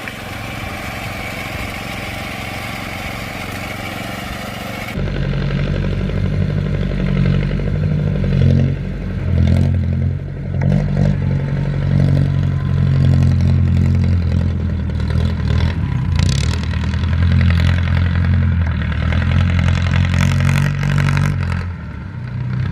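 A tractor engine running hard, with clattering and scraping from the machine at work. For the first five seconds or so a steadier, quieter engine sound is heard, then it cuts to the louder, rougher running.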